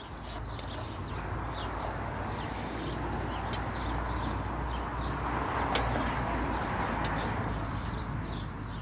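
Small birds chirping repeatedly over a steady rushing background that swells towards the middle, with a single sharp click about six seconds in.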